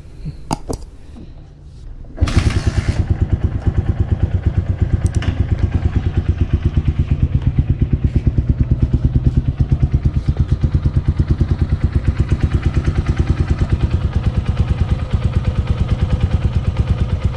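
A few short clicks, then a motorcycle engine starts about two seconds in and settles into a steady idle with even, rapid exhaust pulses. The engine is running on fresh 10W-40 oil, and this is its noise before an oil additive is added.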